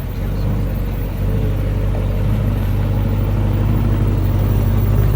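A car engine running at low speed with a steady low drone, growing louder as the car draws near.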